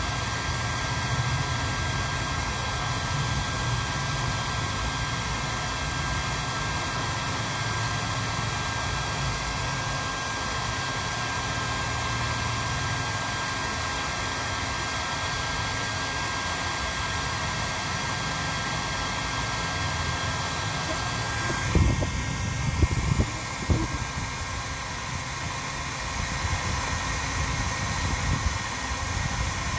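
Steady whirring machine noise with a thin high tone through it; about 22 seconds in the tone stops and the noise changes, and a few light knocks follow.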